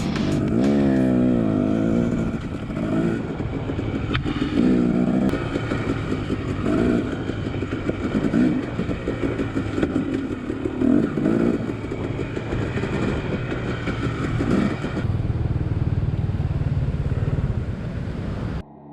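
Two-stroke dirt bike engine revving up and down in repeated swells as it climbs rough trail, settling into a steadier low note for the last few seconds before cutting off suddenly near the end.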